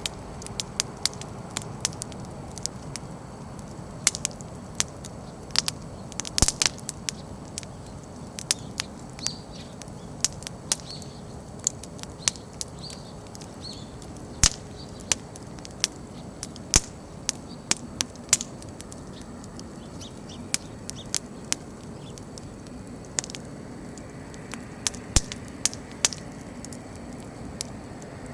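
Wood bonfire burning: irregular sharp crackles and pops from the burning firewood over a steady low rush of flame.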